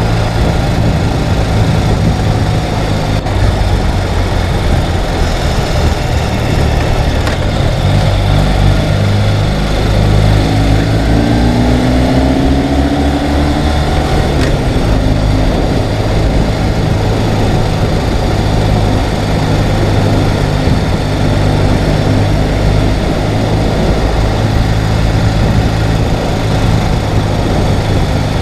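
Ural sidecar motorcycle's flat-twin engine running steadily on the move. About halfway through, a second engine briefly rises in pitch.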